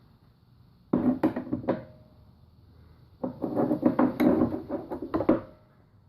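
Metal clatter and knocking as a socket on an extension is worked against the valve spring retainers of a Toyota 1ZZ cylinder head to free the valves. There are a few sharp knocks about a second in, then a denser run of clattering from about three seconds in.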